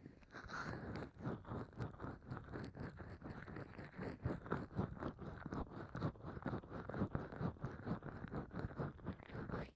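Hands slick with massage oil rubbing in quick, irregular strokes, starting suddenly out of near silence and carrying on without a break.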